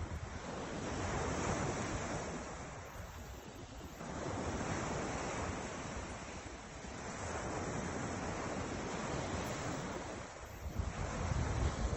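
Ocean waves breaking and washing ashore, the surf swelling and ebbing every three to four seconds, with wind buffeting the microphone near the end.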